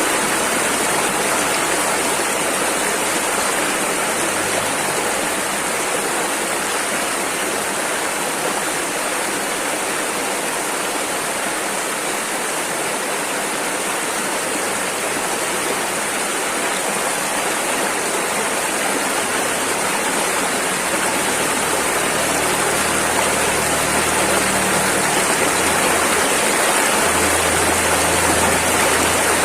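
Rushing river water flowing over rapids: a steady, dense rush.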